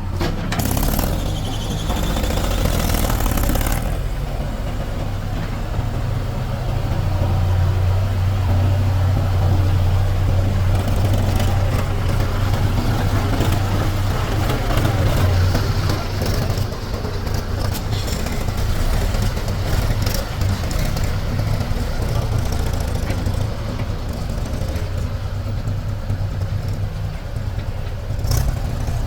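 Heavy diesel machinery engine running steadily with a low hum, with a few short knocks of working machinery.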